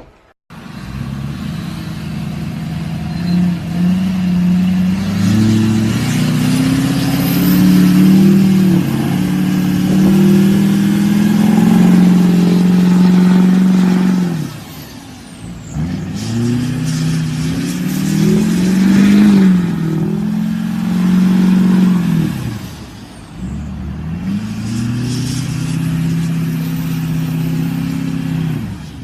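Truck engine revved hard in three long pulls: each time the revs climb, hold high for several seconds, then drop back, briefly at about halfway and again a few seconds before the end.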